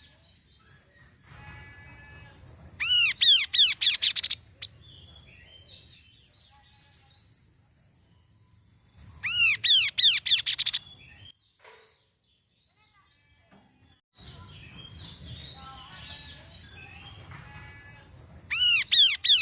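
Kaso-kaso bird singing: three loud bursts of rapid, repeated high whistled notes, with softer twittering between them and a brief pause near the middle.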